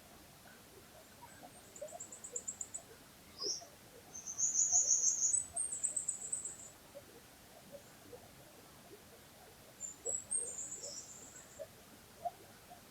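Small songbird singing high, rapid trilled phrases in three bursts: about two seconds in, a louder one around five seconds, and another around ten seconds. Beneath them, a faint trickle of a flowing stream.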